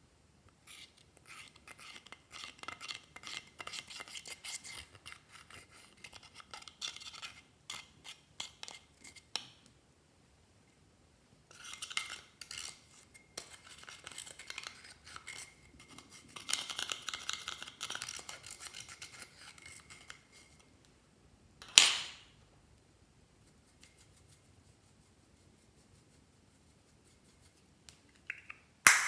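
Clear slime being mixed, giving long runs of small crackling clicks and squishes, in two stretches. Later a single sharp snap, and another at the very end.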